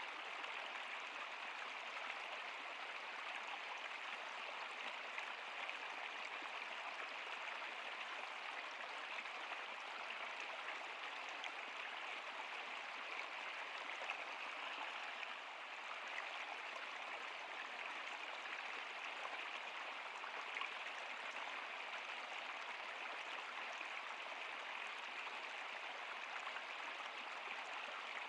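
Stream water running steadily over rocks, an even rushing and trickling with no pauses.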